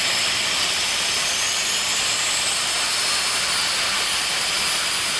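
Jet turbine engine of a jet-powered drag racing car running steadily, a constant loud hiss and whine, with a faint rising whine high up about two seconds in.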